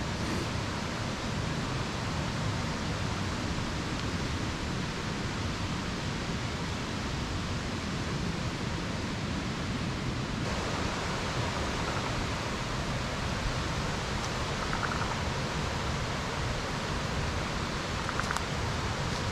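Steady rushing hiss with no clear rhythm, and a few faint short chirps about two-thirds of the way in and near the end.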